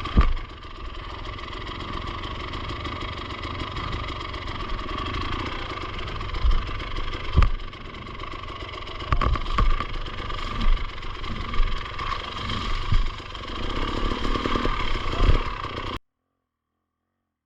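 Enduro motorcycle engine running steadily at low revs on a rough descent, with a series of thumps from the bike jolting over the ground. The sound cuts off suddenly near the end.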